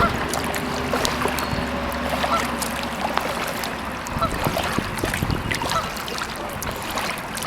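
Pond ambience from a kayak: scattered small splashes and drips from the paddle, short calls from waterfowl, and a low steady hum of highway traffic that fades about halfway through.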